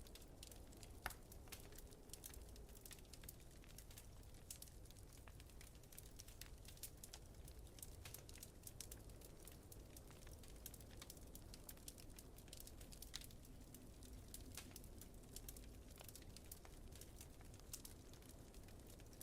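Wood fire crackling: irregular small pops and ticks, with one sharper pop about a second in, over a faint, steady low rumble.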